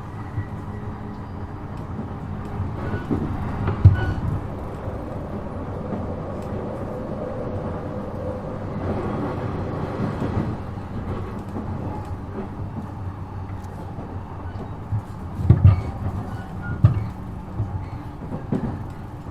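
E233-7000 series electric train running between stations, heard from inside the car: a steady rumble with a motor tone that rises a little about halfway through, and a few sudden loud thumps from the wheels on the track about 4 s in and several more near the end.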